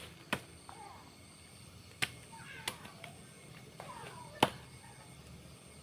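Hand-forged leaf-spring-steel golok (machete) chopping into a dry tree, four sharp strikes, the last the loudest.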